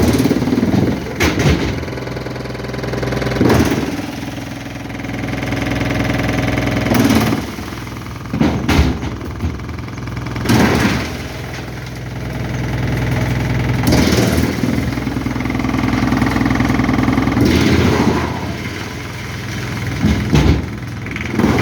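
Forestry wood chipper running, its engine holding a steady note while wood goes through it, with a loud crunching burst every two to four seconds.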